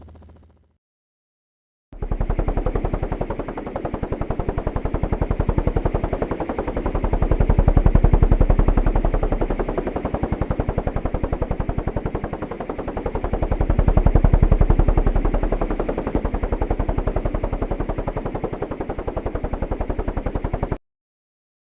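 Helicopter rotor chopping in a fast, even beat of blade slaps, with a steady high turbine whine over it. It starts suddenly about two seconds in, swells louder twice, and cuts off suddenly near the end.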